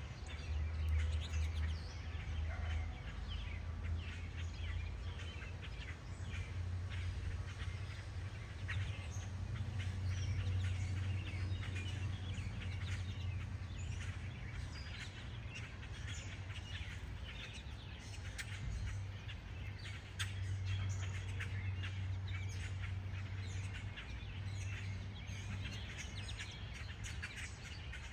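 Backyard birds chirping and calling, many short calls scattered throughout, over a steady low hum.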